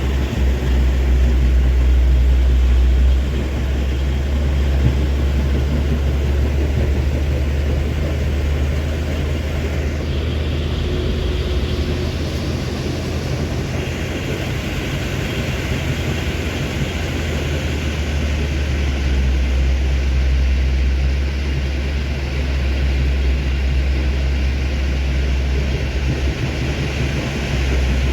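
Fully loaded Hino 500 dump truck's diesel engine running under load on an uphill climb, a steady low drone that drops a little in level about three seconds in.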